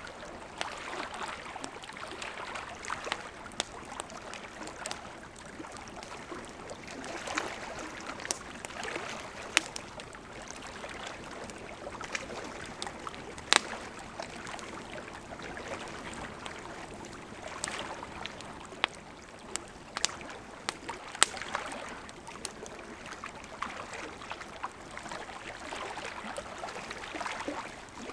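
Burning wood campfire: a steady hiss of flames with frequent sharp crackles and pops, a few louder snaps standing out around the middle.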